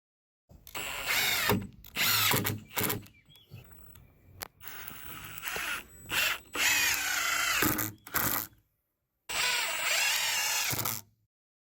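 Power tool motor running in about five short bursts of one to two seconds each, its pitch rising and falling as it speeds up and slows down, while lumber is worked.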